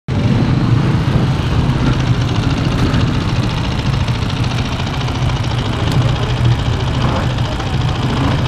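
Enduro dirt bike engine running steadily at idle, close by.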